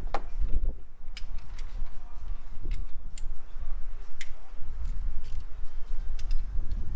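Scattered light metal clicks and clinks of hand tools and engine parts being handled, about ten spread irregularly over a low rumble.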